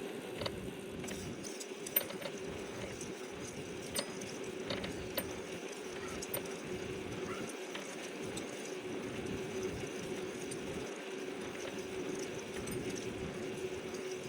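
A Trek Townie electric bike being ridden: a steady hum with a few sharp clicks and rattles.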